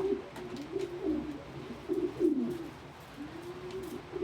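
Domestic pigeons cooing: a run of low, rolling coos, one after another.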